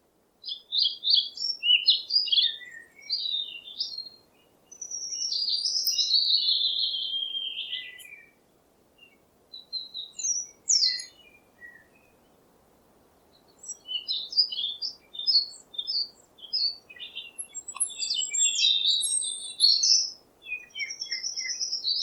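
Birds chirping and singing in quick, varied high phrases, with a brief pause about halfway through.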